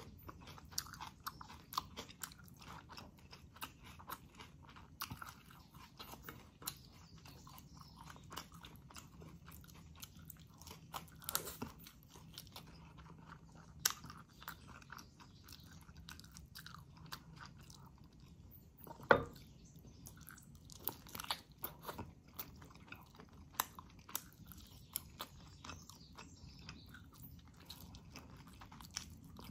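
Close-miked chewing and wet mouth sounds of someone eating chicken in coconut milk with her fingers: many soft smacks and clicks, with one louder sharp smack a little past the middle.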